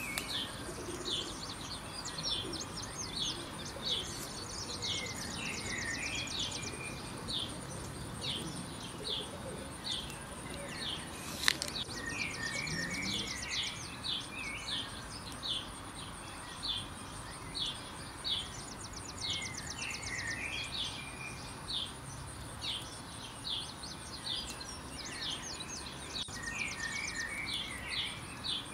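Birdsong: one bird repeats a short high chirp over and over, and other birds break in with warbling phrases now and then. There is a single sharp click about eleven seconds in.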